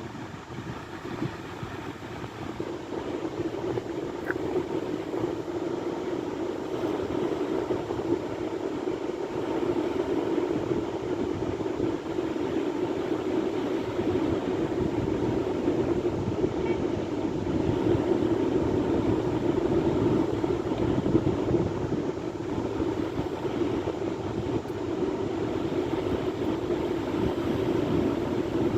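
Sea waves: a steady rush of surf that slowly grows louder.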